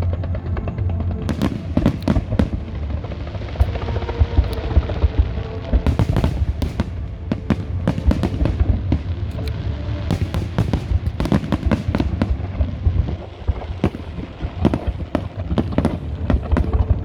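Fireworks display: a dense run of shell bursts and crackling bangs, heavy and near-continuous, with music playing underneath. The bangs thin out briefly about thirteen seconds in, then pick up again.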